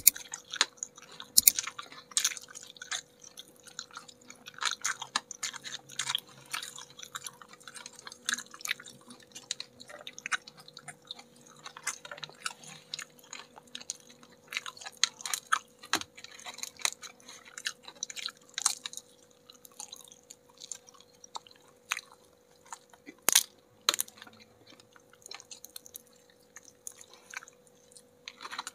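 Two people chewing and biting crunchy battered fried chicken wings, with irregular crisp crackles. The sharpest crunches come about a second and a half in and again near 23 seconds.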